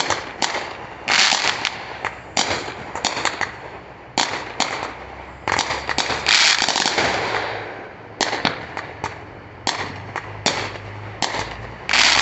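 Fireworks going off one after another: a run of sharp bangs, with a denser, longer stretch of crackling bursts about six to seven seconds in.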